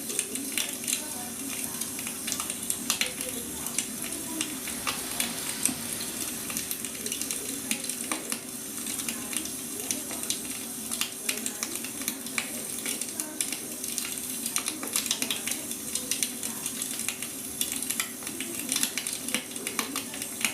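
Wood fire crackling: a steady hiss broken by irregular snaps and pops of burning firewood. A faint steady hum runs underneath.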